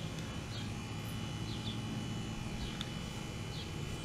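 Steady low rumble of outdoor background with a bird chirping short notes about once a second.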